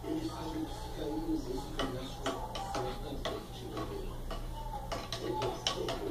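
Quick, irregular light clicks and taps, several a second, starting about two seconds in and getting busier near the end, over a faint background voice.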